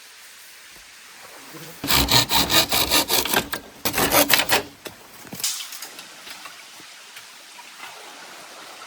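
Hand sawing: about three seconds of quick back-and-forth saw strokes, roughly four or five a second, followed by one short stroke.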